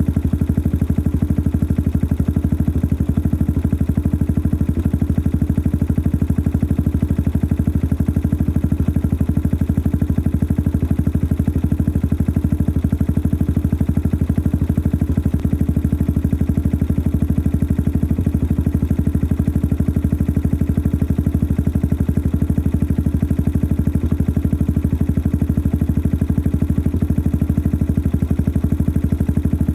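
Yamaha XT 600 43F single-cylinder four-stroke engine idling steadily through a modified stock exhaust, an engine the owner calls noisy.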